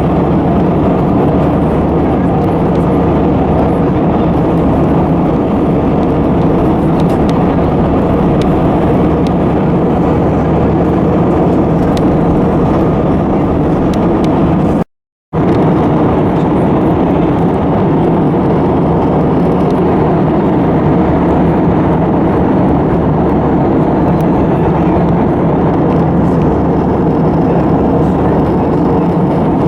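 Steady roar of an Airbus A320's jet engines and rushing air, heard from inside the cabin. It cuts out completely for a moment about halfway through.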